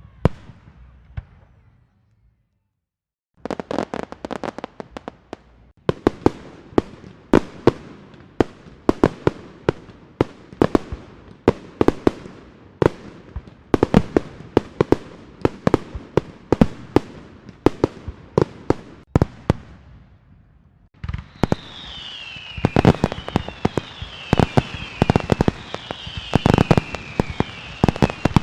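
Fireworks and firecrackers: after a short silence, long rapid runs of sharp bangs and cracks, several a second. In the last part a steady hiss sits under the bangs, with short high whistles falling in pitch, over and over.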